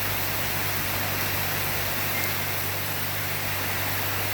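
Heavy rain falling steadily, a constant hiss of water with a steady low hum underneath.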